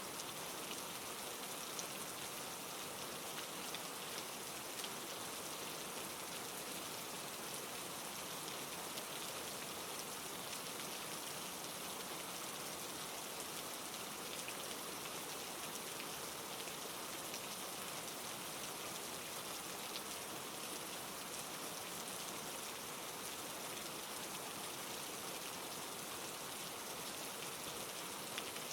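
Steady rain falling on a surface, an even hiss with fine scattered drop ticks.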